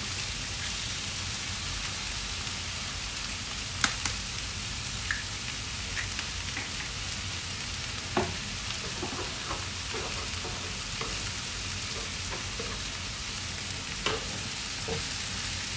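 Cauliflower rice and diced vegetables sizzling steadily in a wok. There are a few sharp taps on the pan about four, eight and fourteen seconds in, and a spatula scrapes as cracked eggs are stirred into the rice.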